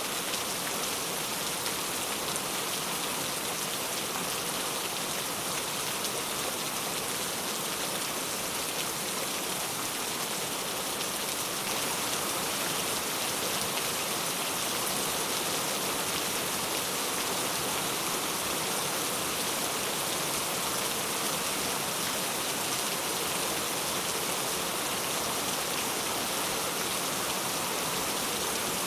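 Heavy rain falling in a steady hiss, without a break.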